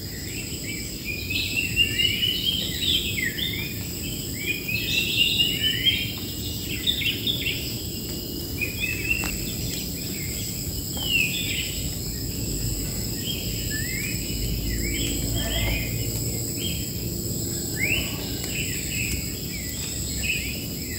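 Wild birds singing and calling, with many quick rising and falling chirps, over a steady high-pitched drone of insects.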